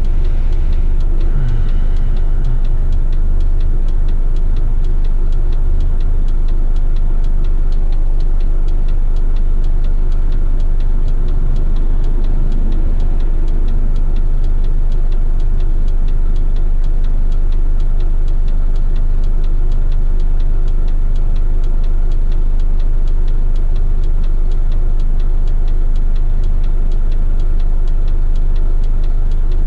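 Heavy rigid rubbish truck's diesel engine running, a steady low drone.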